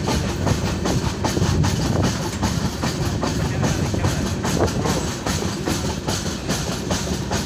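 Moving passenger train heard from an open coach doorway: a steady rumble of the coaches with rapid, irregular wheel clatter on the rails.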